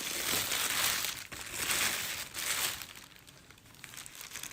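Crinkling and rustling handling noise as the clay is checked over, dense for about three seconds and then fainter.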